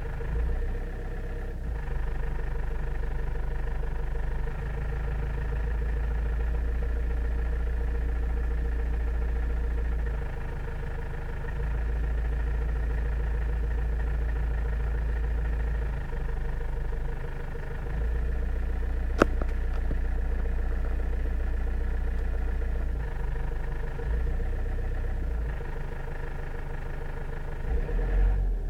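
First-generation Toyota Avensis engine running at low rpm. A deep drone swells and fades every few seconds: the strange low-rpm noise the owner is asking about. There is a single sharp click about two-thirds of the way through.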